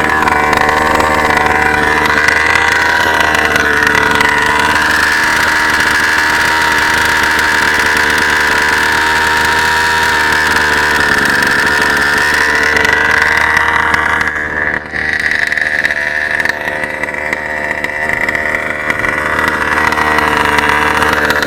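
36cc Rovan two-stroke engine in a Losi 5ive-T RC truck, fitted with a new 8k clutch, running at steady high revs on a speed run. Its pitch wavers a little, and the sound drops briefly about fifteen seconds in before it picks up again.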